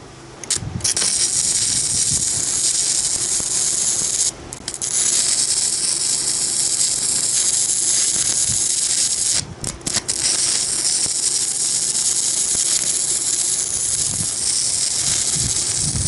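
Stick-welding arc crackling and hissing as a 2 mm electrode at 73 amps welds a 10 mm steel stud. The arc strikes about half a second in and breaks off briefly twice, around four and ten seconds in, each time restruck. It goes out near the end, with a steady generator hum underneath.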